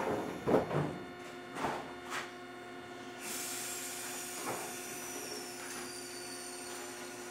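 Interior sound of an Eizan Electric Railway Deo 700-series railcar: a steady hum with a few knocks early on, and a high hiss that comes in suddenly about three seconds in.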